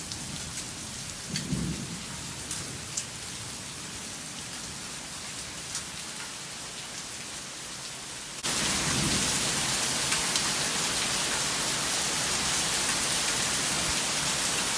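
Heavy rain with dime-sized hail, a steady hiss with scattered sharp ticks of hailstones striking. About eight seconds in it suddenly becomes much louder and stays that way.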